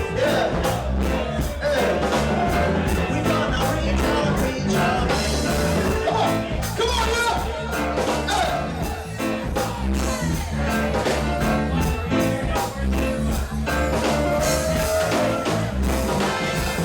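Live reggae band playing a song, with a heavy bass line under a steady drum beat.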